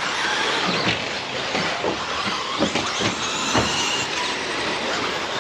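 Electric RC race trucks running on a dirt track: brushless motors and gears whining, rising and falling in pitch with the throttle, over a steady rush of tyre and track noise, with a few short knocks.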